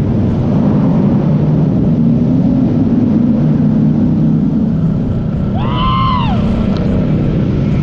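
Harley-Davidson Fat Boy's V-twin running steadily at idle through its exhaust with a loud, deep rumble. A brief whistle-like tone rises and falls about six seconds in.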